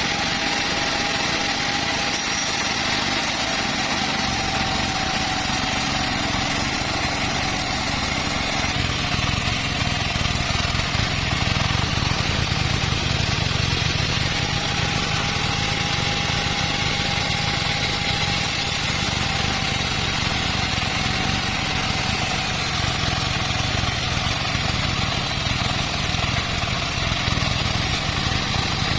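Engine-driven band sawmill running steadily while sawing teak, a constant engine drone under a high whine that drops out about nine seconds in and comes back around fourteen seconds.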